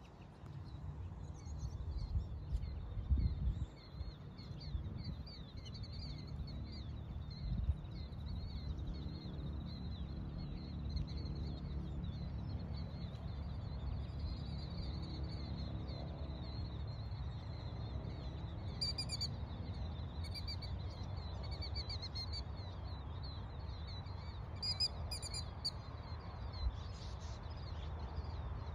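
Many small birds chirping and twittering high and without pause, with a few louder, clearer repeated calls from another bird partway through and again later. A steady low rumble runs underneath, with a few louder gusts in the first few seconds.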